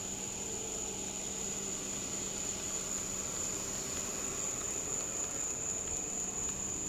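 Steady outdoor background: a continuous high-pitched insect drone, typical of crickets, over a low steady hum.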